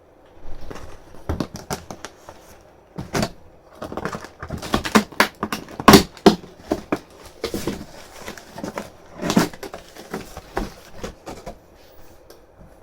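Cardboard shipping box being handled and opened: an irregular run of knocks, thumps and scrapes, the loudest about six seconds in.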